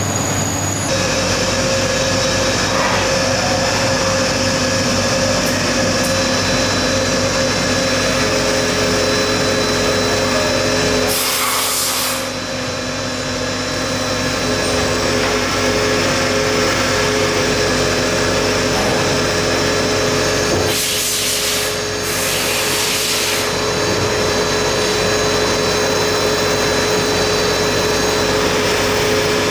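Factory machinery running steadily: an even mechanical hum with a few steady tones. It is broken by a short hiss of air or spray near the middle and twice more about two-thirds through.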